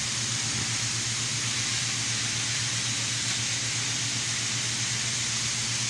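Steady mechanical hum with an even hiss over it, no knocks.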